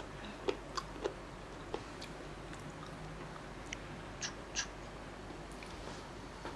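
A person quietly chewing fresh raw-fish sashimi, with a handful of short soft clicks and mouth smacks spread through it over a low room hum.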